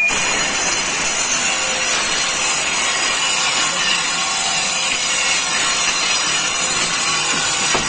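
Power tool cutting wood: a steady, loud noise with a thin high whine above it, starting abruptly.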